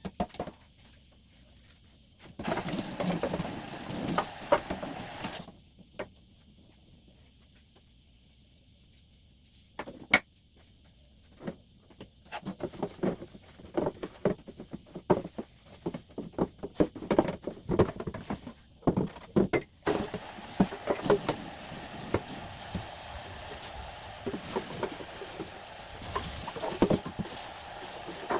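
Household cleaning sounds: stretches of steady running water, with many knocks and clattering as items are handled and washed. There is a quiet gap with a few single clicks partway through.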